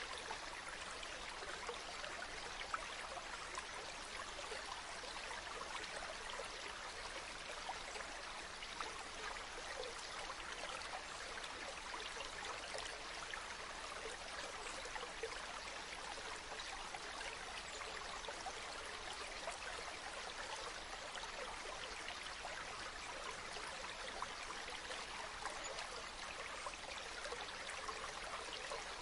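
Steady flowing water, like a small stream running over stones, an even continuous rush with fine trickling detail.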